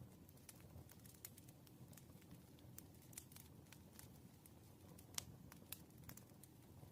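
Faint, irregular ticks and taps of a pen writing on paper at a desk, with one sharper tap a little past five seconds in, over a low steady room hum.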